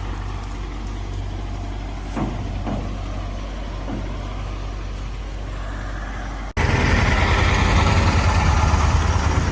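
An engine running steadily at a low hum, then, after a sudden cut about six and a half seconds in, a louder and rougher engine running.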